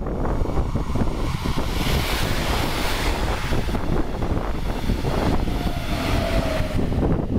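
A train passing close by, a loud steady rush of rolling noise with wind buffeting the microphone, and a faint tone falling slightly in pitch in the second half.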